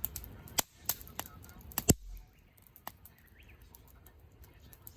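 Firewood burning in a campfire, crackling with sharp pops, a quick run of them in the first two seconds with the loudest just before two seconds in, then only a few scattered pops.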